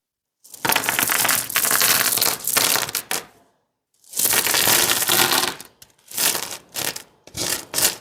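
Crunching, crackling noise of dry material being handled or crushed, in about five separate bursts, the first and longest lasting about three seconds.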